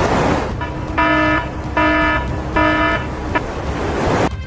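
Electronic alarm buzzer sounding three short buzzing beeps about 0.8 s apart. It plays over a rushing noise that is loudest at the start.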